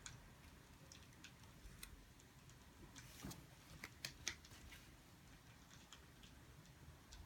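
Near silence broken by faint, irregular small clicks and ticks, a few closer together and slightly louder around the middle.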